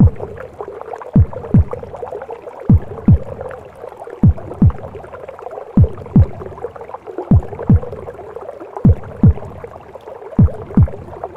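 A heartbeat sound: paired lub-dub beats repeating about every one and a half seconds, over a steady whooshing womb-sound noise.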